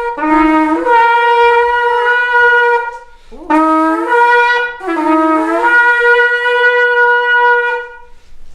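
Shofar blown in three long blasts. Each blast starts on a low note and jumps up to a higher note that is held, the last blast the longest.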